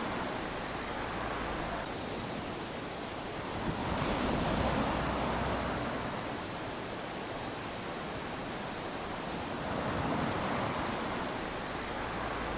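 Small waves lapping onto a sandy shore, a steady wash of surf that swells twice, about four seconds in and again near ten seconds.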